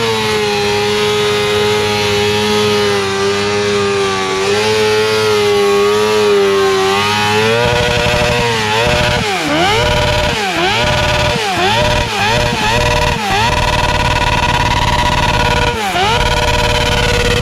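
Motorcycle engine revved hard and held at high revs for several seconds. Then it is blipped, dropping sharply and climbing straight back again about half a dozen times, before being held high once more with one last dip near the end.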